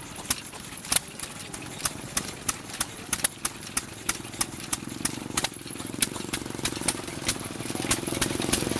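Antique stationary gas engine running a belt-driven water pump, with sharp irregular clacks about two or three times a second over a low running sound. The running sound grows louder from about halfway through.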